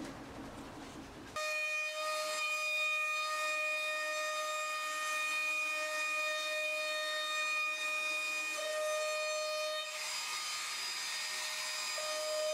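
Electric power tool working wood, starting suddenly about a second in and running with a steady whine over a rasping hiss. The pitch sags briefly twice, as under load, and the rasp grows louder near the end.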